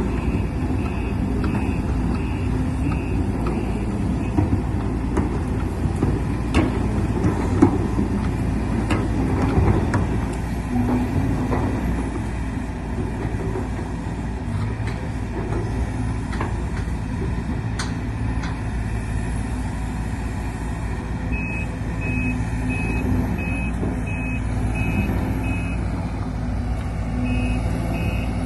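A Sumitomo-based amphibious excavator's diesel engine runs steadily. Its warning alarm beeps at an even pace for the first few seconds and again over the last several seconds, and a few sharp knocks and clanks come in the middle.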